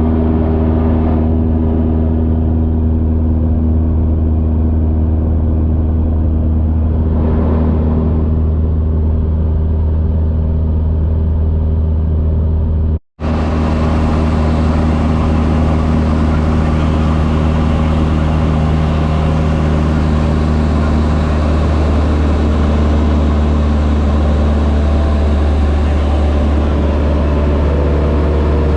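A small propeller airplane's piston engine and propeller droning steadily in flight, heard inside the cabin. The sound cuts out for an instant about 13 seconds in, then carries on unchanged.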